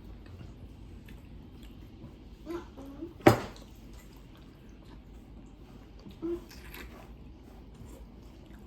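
Quiet mealtime sounds: soft chewing and handling of food, with one sharp crack or clack about three seconds in and two brief low hums of voice.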